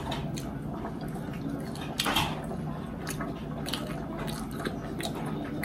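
Close-up chewing and wet mouth sounds of someone eating steak and mashed potatoes, with scattered small clicks from a fork against a china plate. About two seconds in there is one louder, brief crunch or scrape.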